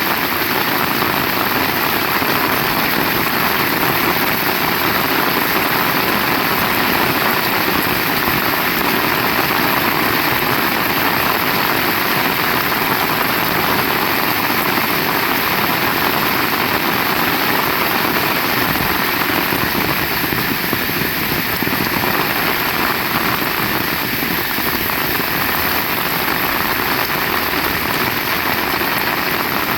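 Heavy rain falling steadily, an even rushing hiss with no breaks.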